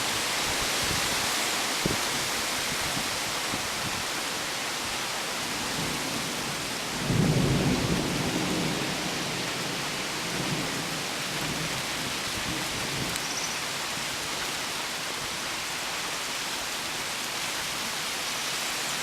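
Steady rain pouring down during a thunderstorm, with a roll of thunder about a third of the way in that rumbles low for a few seconds and dies away.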